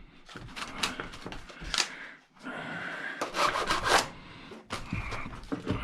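Irregular scraping and clicking of a hand tool worked against the metal of an old battery charger's transformer winding, in short uneven strokes, to test whether the winding is copper or aluminium.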